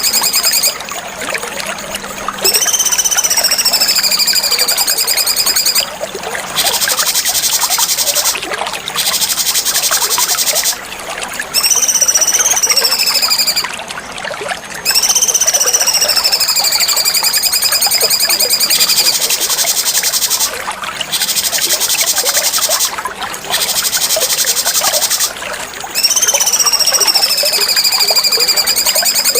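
Cucak cungkok songbird singing in loud phrases of a few seconds each, separated by short pauses. High whistled notes that dip and rise alternate with dense, high buzzing trills.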